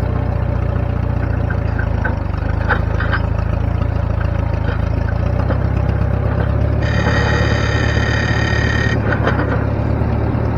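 An engine running steadily at idle, with a few light clicks about two seconds in. A high steady tone sounds for about two seconds past the middle.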